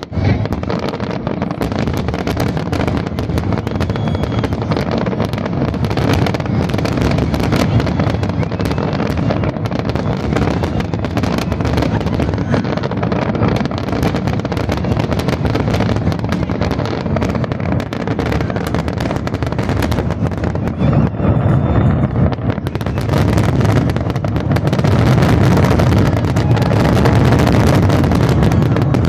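Fireworks display: a dense, continuous barrage of bursts and crackles that grows louder in the last few seconds.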